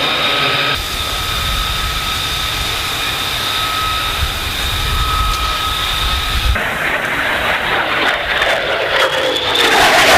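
F-35B's jet engine (Pratt & Whitney F135) running with a steady high whine. Partway through it changes abruptly to a louder rushing roar with a falling tone, building near the end.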